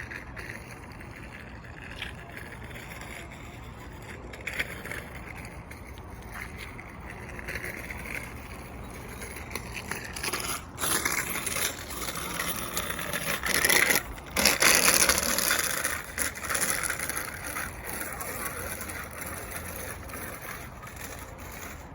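Wheels rolling and rattling over a rough outdoor path, a continuous noisy rumble with a few clicks, loudest for a few seconds about two-thirds of the way through.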